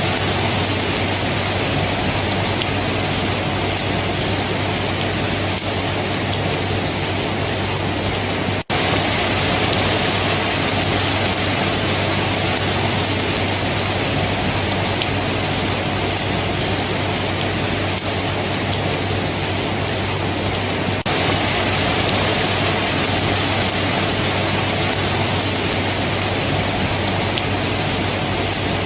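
Steady heavy rain, an even hiss of drops falling on surfaces. It drops out for an instant about nine seconds in, and there is a slight change near the end where the recording is joined.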